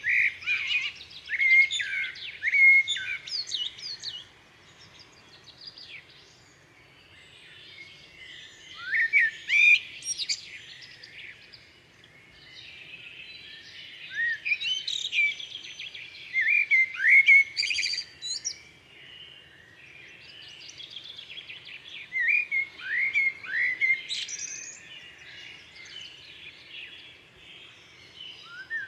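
Birds chirping and whistling, several short rising and falling calls overlapping, in bouts every few seconds with quieter stretches between.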